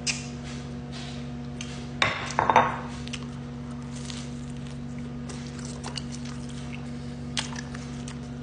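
Dishes and cutlery clinking and knocking while eating, with a cluster of louder knocks about two seconds in and a few scattered clicks after, over a steady low hum.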